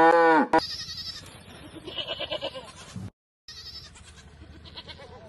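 A cow's moo falls in pitch and cuts off in the first half second. Then come high, wavering bleats from goats or sheep, with a short break in the middle and quieter bleats after it.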